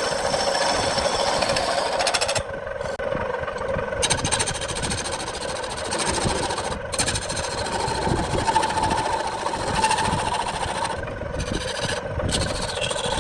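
Wood lathe running steadily with a constant hum. Over it a high hiss cuts out and comes back several times.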